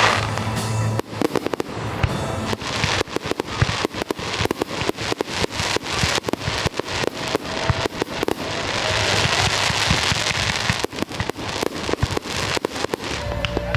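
Aerial fireworks going off in rapid succession: many sharp bangs and pops, with a dense, sustained crackle from a salvo of crackling shells about two-thirds of the way through.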